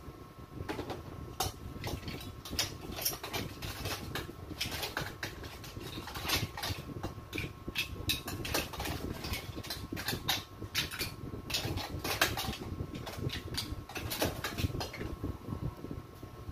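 Metal ladle scraping and clinking in an aluminium pot, with mussel shells clattering as they are spooned into a ceramic bowl: many quick irregular clicks. A faint steady hum runs underneath.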